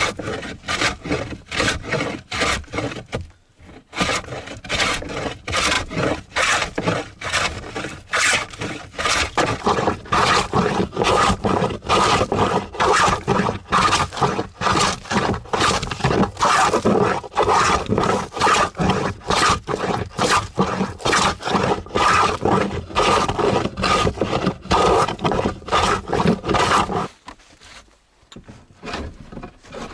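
Hand plane being pushed over a knotty spruce board in quick repeated scraping strokes, about two a second. It pauses briefly about four seconds in and stops a few seconds before the end.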